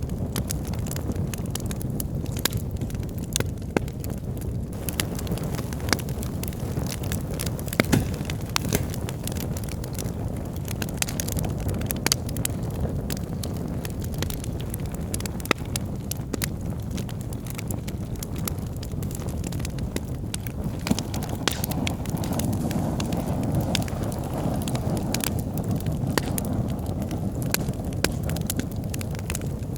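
Wood logs burning in a fireplace: a steady low rumble of flames with frequent, irregular sharp crackles and pops, one louder pop about 8 seconds in.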